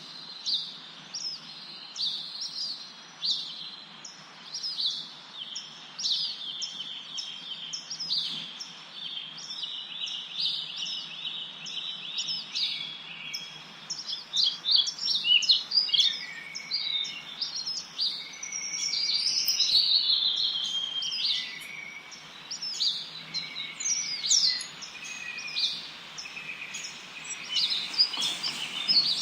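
Songbirds chirping and singing: a steady run of short high chirps about two a second, with a denser, busier stretch of song about halfway through, over a faint steady hiss.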